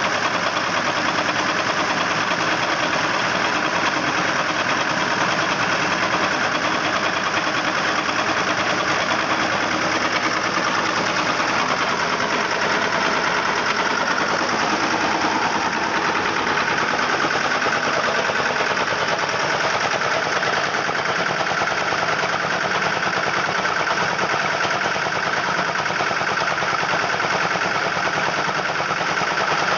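Lombardini 3LD510 single-cylinder, air-cooled diesel engine running steadily, with a rapid, even knocking beat from its firing strokes.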